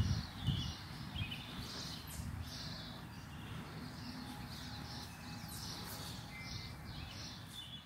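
Small birds chirping repeatedly in short calls over a low, steady outdoor background noise.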